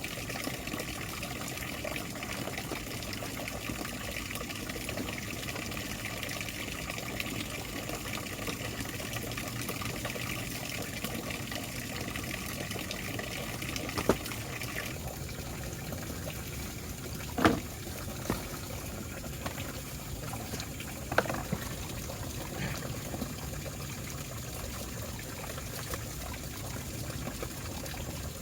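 Steady sound of river water running, with three sharp knocks a little after halfway through.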